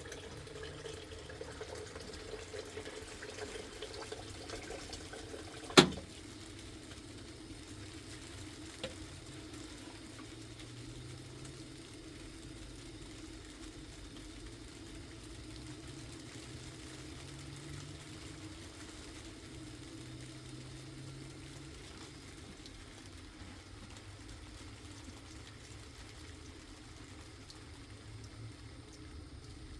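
Steady watery sound, with a sharp knock about six seconds in and a fainter click near nine seconds.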